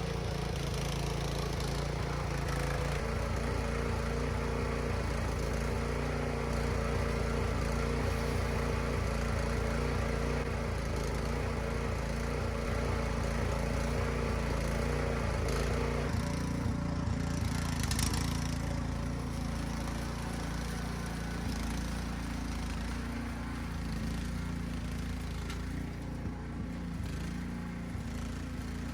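Troy-Bilt CRT garden tiller's small gasoline engine running steadily under load, with one sharp knock about two-thirds of the way through.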